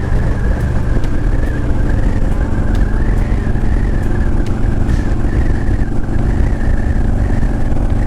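Motorcycle engine running steadily at highway cruising speed, mixed with road and wind noise.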